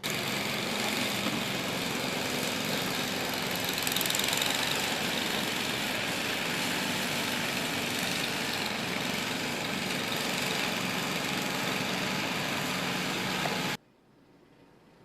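An engine running steadily under a loud, even rushing noise; it cuts off suddenly near the end.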